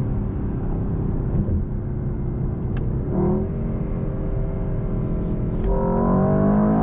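Mercedes-AMG S63 E Performance's twin-turbo 4.0-litre V8, heard from inside the cabin under hard acceleration. The engine note holds steady, steps up about three seconds in, and climbs in pitch and grows louder near the end.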